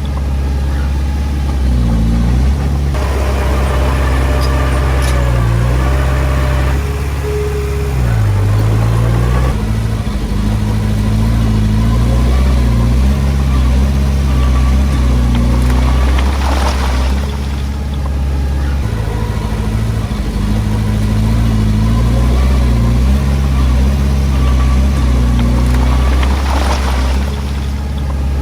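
Komatsu D20P bulldozer's diesel engine running under load, its pitch rising and falling repeatedly as it works. A short hissing rush cuts in twice in the second half.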